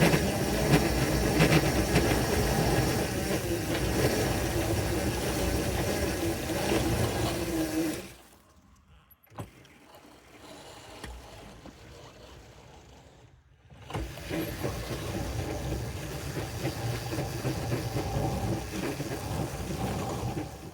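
Locomotive's electric traction motors running hard under heavy load, pushing a plow into deep snow, with a steady whine. The sound falls away for about six seconds in the middle, then the motors run hard again.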